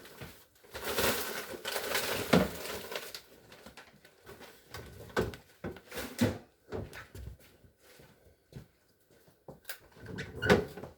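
Rustling and handling of objects for the first few seconds, then a series of separate knocks and clatters as things are moved and set down.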